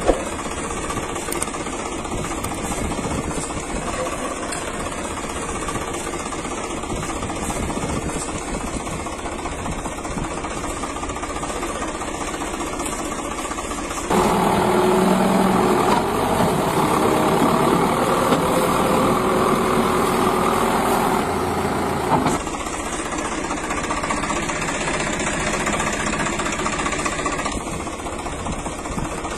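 An engine running steadily with a rattling, knocking texture, growing louder for several seconds in the middle before settling back.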